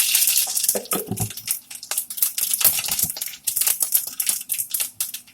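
Whole spice seeds (mustard, cumin, fennel, fenugreek and black cumin) crackling and spluttering in hot oil in a kadai: a rapid, irregular run of sharp pops over a faint sizzle.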